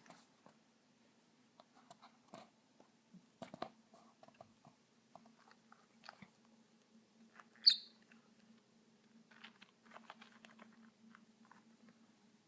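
Small pet bird moving and pecking inside a shoe: scattered light clicks and scratches, with one short high chirp a little past halfway, the loudest sound.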